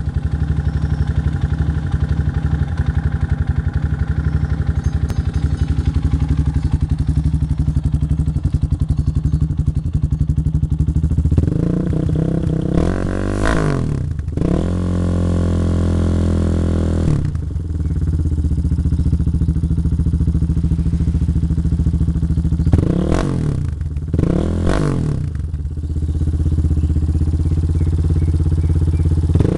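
Motorcycle with an aftermarket racing exhaust, idling with a steady low pulse. Around halfway it is revved for several seconds, the pitch climbing and falling. Near the end it gets two short throttle blips.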